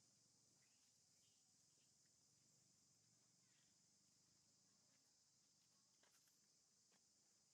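Near silence: a faint, steady high-pitched hiss with a few faint ticks.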